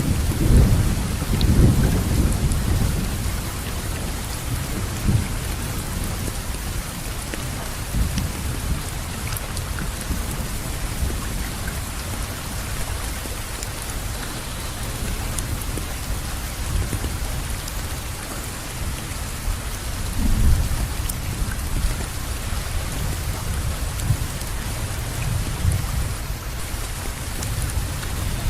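Steady rainfall, an even hiss of drops, with low rumbles that swell and fade near the start, about two-thirds of the way in, and again near the end.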